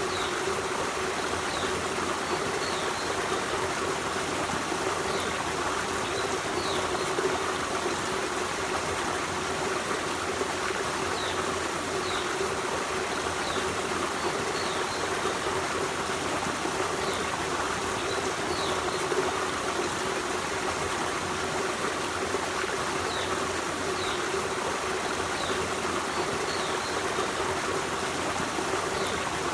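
Forest stream running steadily, an even rush of flowing water. Short high bird chirps sound faintly over it every second or two.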